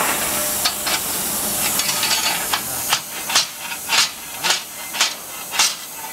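A steady hiss for about three seconds, then six sharp metal knocks about twice a second as the freshly plasma-cut steel piece is taken out of the sheet.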